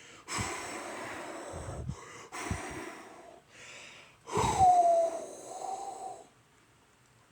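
A person blowing hard through the mouth, mimicking wind: four breathy blows in the first six seconds. The last blow carries a falling pitched tone, and then the blowing stops.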